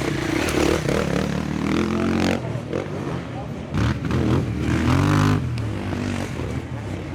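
Motocross motorcycle engines revving, rising and falling in pitch as they climb twice, with voices mixed in.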